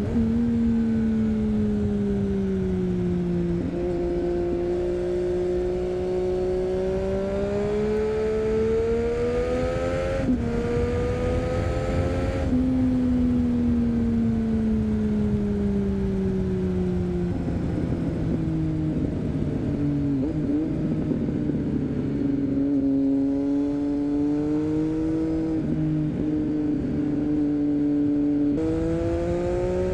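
Triumph Street Triple 675's inline three-cylinder engine through an Arrow 3-2 exhaust while riding, its pitch falling and rising with the throttle. It rises steadily up to about ten seconds in, jumps in pitch at gear changes around ten and twelve seconds, then falls away, holds low, and climbs again near the end.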